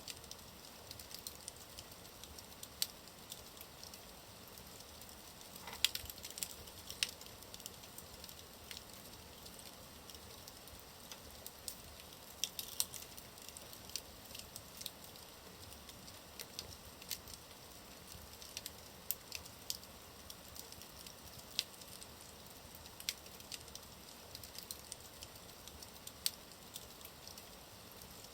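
Wood fire burning in a fireplace: a steady soft hiss with irregular sharp crackles and pops, a few louder ones among them.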